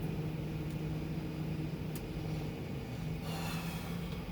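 Truck engine running in a steady low drone, its pitch stepping up slightly about three seconds in, with a brief hiss at the same moment.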